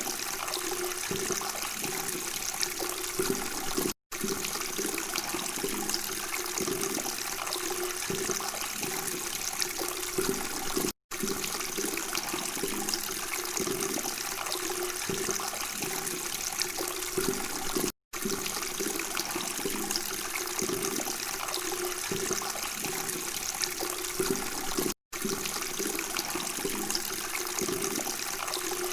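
Running water babbling steadily, broken by a brief silent gap about every seven seconds, as of a short recording looped.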